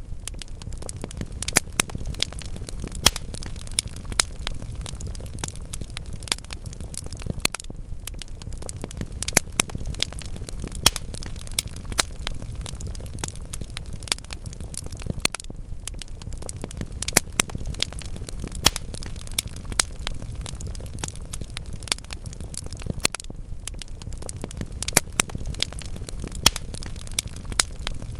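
Wood logs burning in a fireplace: a steady low rumble of flames with frequent sharp crackles and pops at irregular intervals.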